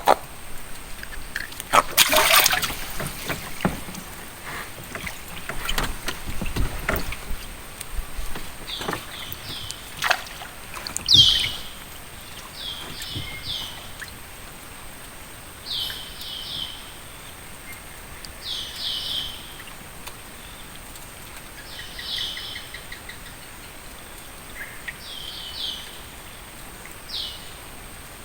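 A bird calling over and over in short groups of quick, high, falling notes every couple of seconds. A few knocks come in the first seconds, before the calls start.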